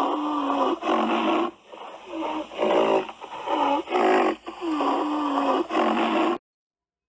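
Rhinoceros calling: a run of loud, moaning calls that bend in pitch, one after another with short breaks, cutting off abruptly about six seconds in.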